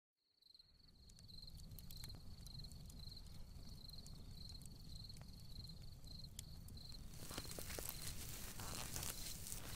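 Night ambience fading in: a cricket chirps steadily, about three chirps a second, over a low rumble. About seven seconds in, a rustling crackle with scattered clicks grows louder.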